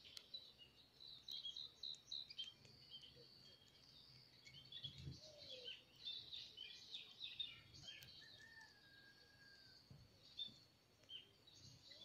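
Small birds chirping faintly: many short, high chirps in quick runs, with one longer steady whistled note a little after the middle.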